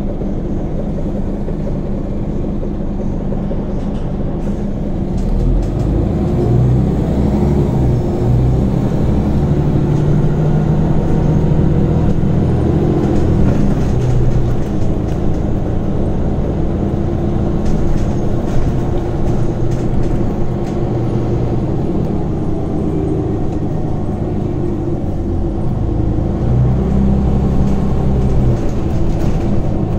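Scania Omnicity city bus heard from on board, its engine and ZF six-speed automatic gearbox running steadily. The engine pulls harder from about five seconds in for several seconds, eases off, and pulls again near the end, as the bus accelerates and cruises.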